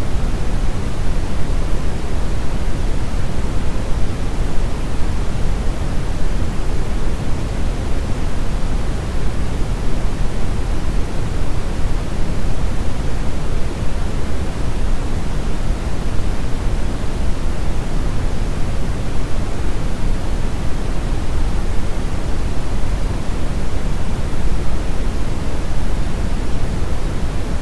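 Brown noise: a steady, even rushing hiss with most of its weight in the low end, unchanging throughout.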